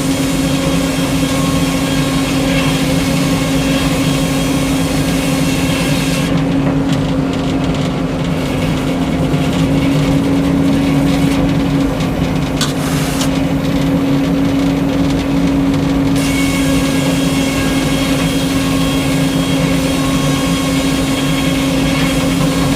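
Frick circular sawmill and its power unit running steadily with a constant engine drone. From about six seconds to sixteen seconds the higher hiss thins out, then it returns.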